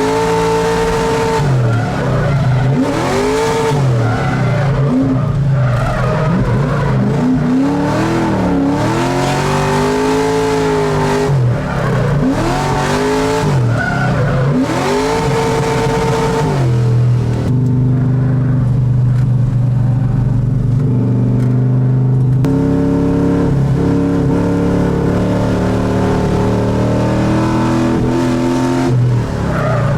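LS3 V8 in a swapped Mazda Miata revving up and down again and again as the car is drifted through a run of corners, with a stretch of steadier engine speed around the middle.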